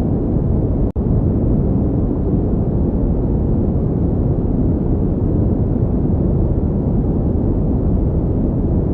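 Steady pink noise: an even, deep hiss with most of its energy low down. It cuts out for an instant about a second in, then carries on unchanged.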